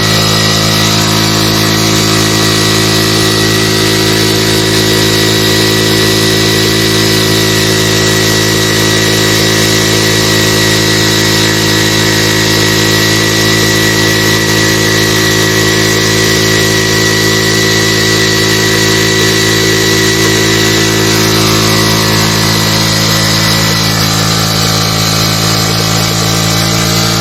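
Honda CD 70's small single-cylinder four-stroke engine running steadily at a constant speed, driving a tubewell water pump.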